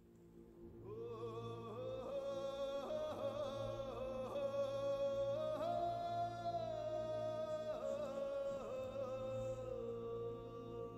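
Meditative background music: a high, wordless singing voice holding long notes with vibrato over a steady low drone, fading in over the first couple of seconds.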